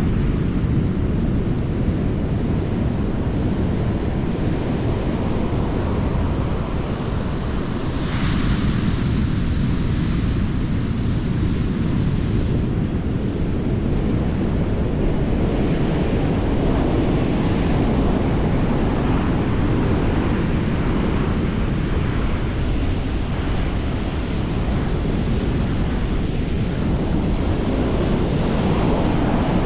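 Ocean surf breaking and washing up the beach, with wind rumbling on the microphone. A brighter hiss of water rushes in about eight seconds in.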